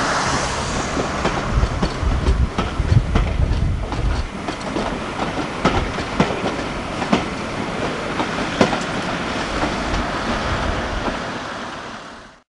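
A passenger train of coaches running past on jointed track, with a low rumble and many irregular clicks of wheels over rail joints. The rumble is strongest in the first few seconds, and the sound fades out near the end.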